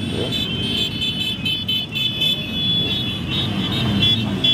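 A stream of motorcycles running past in a parade, a steady mass of engine and traffic noise, with several steady high-pitched tones sounding over it.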